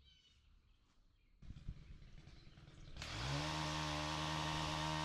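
Two-stroke engine of a Stihl KombiSystem pole saw idling unevenly. About three seconds in it is throttled up quickly to full revs and held at a steady high pitch.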